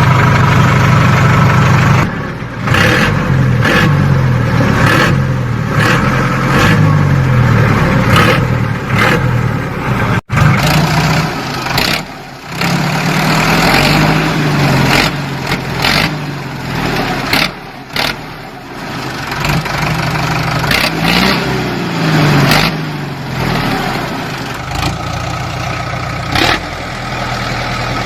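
Tractor engine running, its pitch rising and falling as it revs up and down, broken by many abrupt cuts and a brief dropout about ten seconds in.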